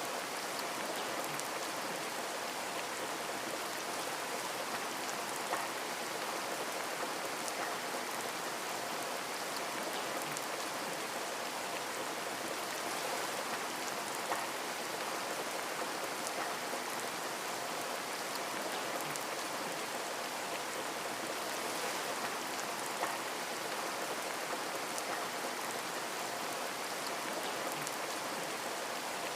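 Steady rain on a window: an even hiss with many small drops ticking, and three slightly louder taps spread through it.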